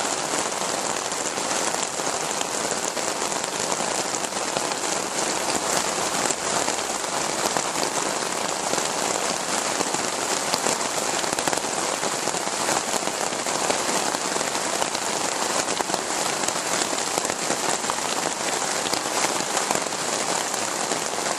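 Heavy rain pouring down, a steady, dense, unbroken patter of drops.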